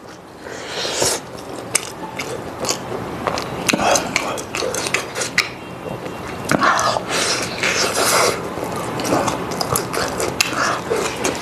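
A person biting and chewing a steamed eggplant-and-chili bun close to the microphone, with many short wet mouth clicks.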